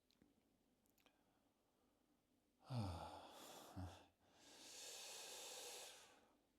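A woman's voiced sigh, falling in pitch, followed by a long, breathy exhale, as she collects herself after a rush of emotion.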